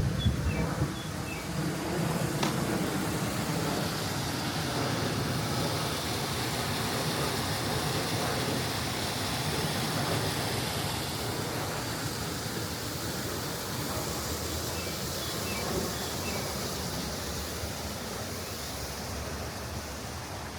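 Steady rushing outdoor noise with no clear source, and a few faint high chirps near the start and again about fifteen seconds in.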